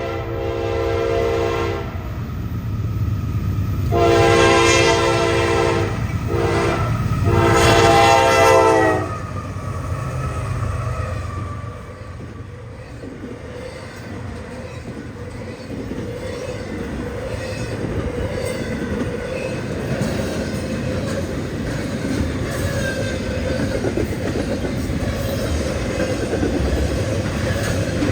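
A locomotive's multi-chime air horn sounds the grade-crossing signal: the end of one long blast, then a long, a short and a final long blast, ending about nine seconds in. The train then passes with a steady rumble and the clickety-clack of wheels over rail joints.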